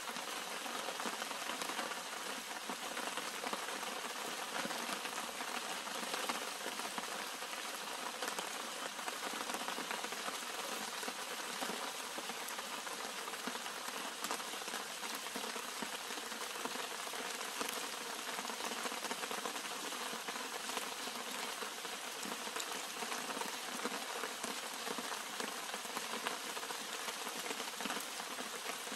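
Steady rain falling on leaves and flowers: an even hiss made of many small drops, with no letup.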